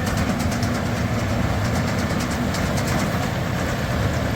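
Tractor and Massey Ferguson 2270 large square baler working, baling straw: a steady engine drone with a quick, even mechanical clatter from the baler.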